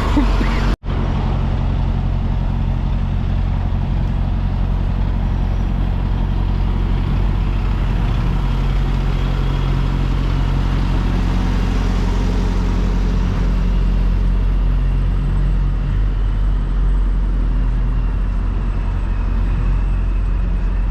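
Semi-truck's diesel engine running steadily with a low, even hum; the sound cuts out for an instant about a second in.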